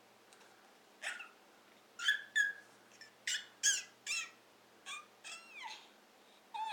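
A toddler making high-pitched squealing monkey-sound imitations: a string of about nine short calls, many falling in pitch.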